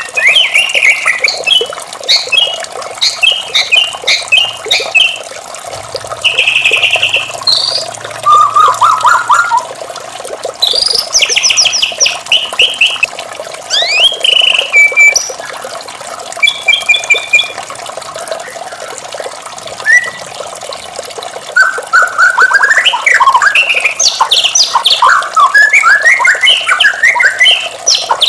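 White-rumped shama singing: a varied run of short whistled phrases, fast trills and rapid repeated notes, with a quieter gap about two thirds of the way through, over steady background noise.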